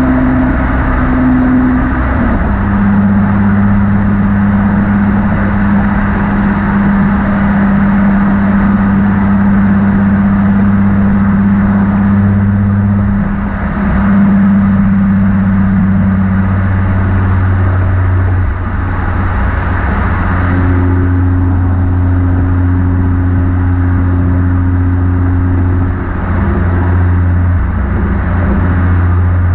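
Nissan 350Z's 3.5-litre V6 running through a Motordyne cat-back exhaust while driving, its engine note held mostly steady. The pitch steps down about two seconds in and shifts several more times as the revs change.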